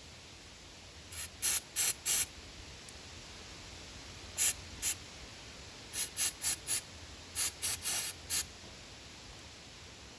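Short hissing spray bursts, about fifteen in four quick groups, cleaning the choke-actuating spot of a small-engine lawn mower carburetor.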